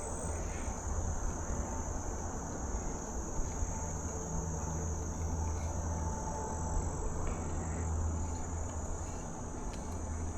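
Steady high-pitched chorus of insects over a low, steady rumble of wind and movement from riding a bicycle.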